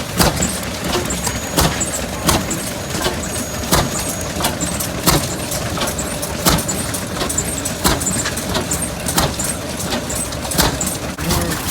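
An old engine running slowly, with a sharp beat about every 0.7 seconds over a steady mechanical background.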